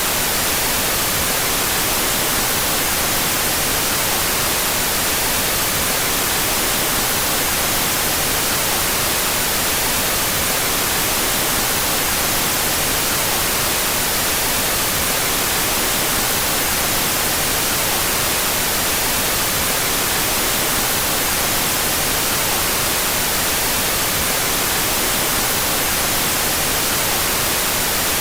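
Steady synthetic white noise, played with its two stereo channels out of phase: an even, unbroken hiss that stays at the same level and never changes.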